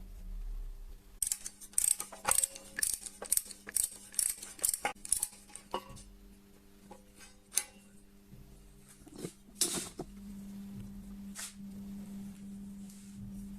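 A run of sharp metallic clicks, about two or three a second, thinning out to a few scattered clicks, over a steady low hum that grows louder near the end.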